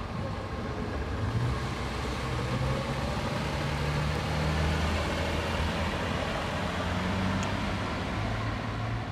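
1965 Mercedes-Benz 220 SE convertible's straight-six engine pulling away and driving past at low speed. Its engine note climbs in the first couple of seconds and is loudest about four to five seconds in as the car passes.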